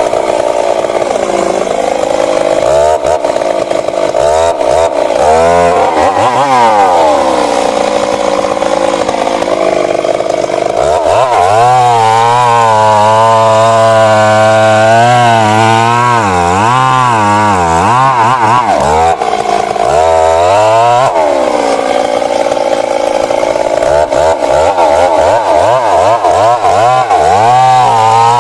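Stihl MS 382 two-stroke chainsaw running under load, cutting into a large old tree, its engine pitch wavering up and down throughout as the chain bites into the wood and frees.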